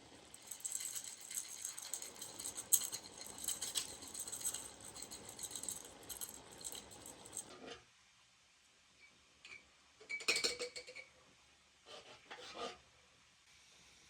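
Dense rattling of small hard objects for about seven seconds, stopping suddenly, followed by a few separate short clinks.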